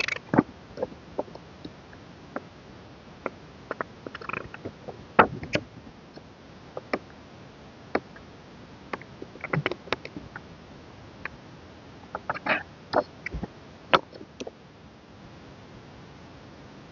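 Scattered light taps, clicks and short rustles of a music album's packaging and inserts (paper, cards and plastic) being handled and set down, with a quieter stretch near the end.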